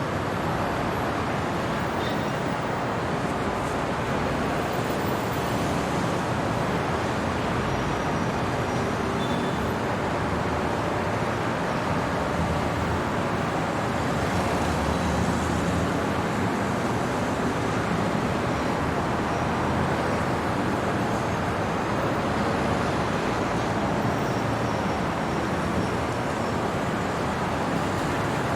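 Steady, even hum of city road traffic, with a few faint brief high tones.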